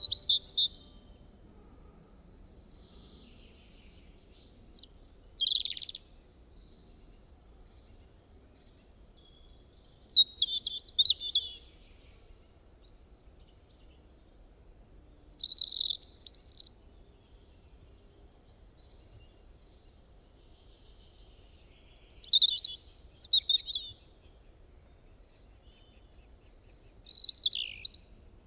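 A songbird singing short, high, chirpy phrases, one every five or six seconds, with only faint outdoor background hiss between them.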